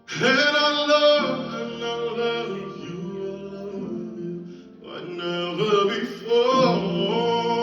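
Live acoustic guitar with a male singer's voice holding and bending notes without words. A new phrase starts right at the beginning and another about five seconds in.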